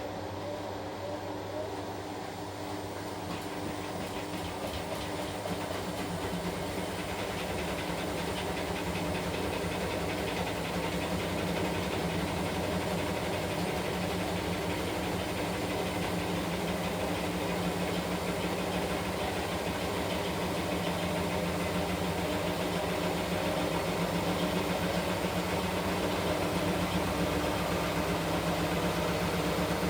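Washing machine running, a steady mechanical hum and churn that grows gradually louder over the first ten seconds or so and then holds.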